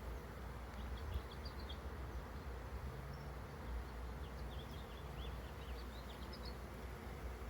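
Honeybee swarm in flight: a steady, dense buzzing of many bees, with clusters of short high chirps about a second in and again past the middle.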